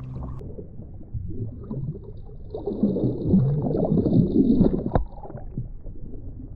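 A freshly caught gurnard grunting and croaking, a run of low, irregular croaks that builds to its loudest in the middle. A sharp click comes about five seconds in.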